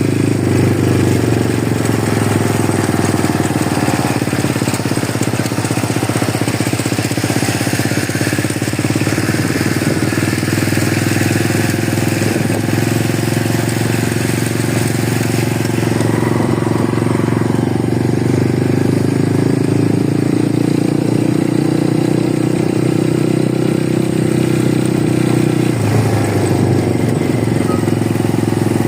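Small 49cc mini motorcycle engine running steadily, its pitch drifting slightly up and down, with a brief shift in pitch near the end.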